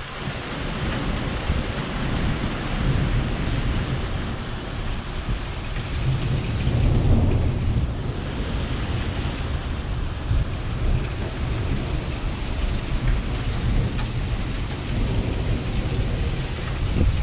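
Storm winds gusting hard with rain falling, the gusts buffeting the microphone into a low rumble. A stronger gust swells about seven seconds in.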